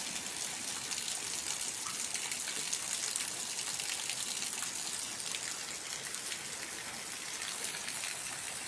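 Steady rain falling, a dense hiss of many fine drop impacts.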